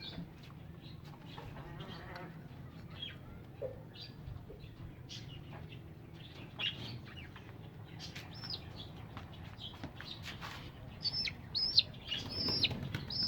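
Small birds chirping: a few scattered short high calls, then several in quick succession near the end, over faint knocks and handling noises.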